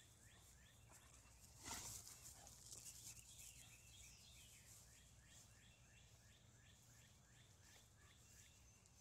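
Near silence with faint birdsong: a bird repeating short, quick descending chirps over and over, plus a brief rustle about two seconds in.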